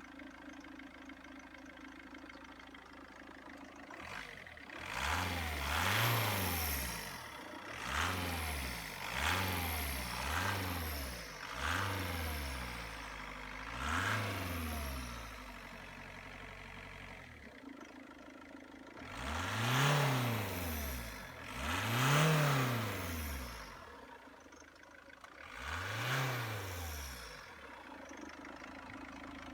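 Mercedes-Benz A 170 CDI 1.7-litre four-cylinder turbodiesel idling, then revved in repeated blips, each rising and falling back to idle: six quick ones, a pause, then three longer, higher revs before it settles back to idle. The engine runs and revs freely.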